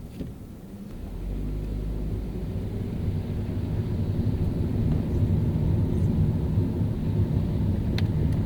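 Car driving on a rain-wet road: a steady low rumble of engine and tyres that grows louder over the first few seconds, with a faint short tick near the end.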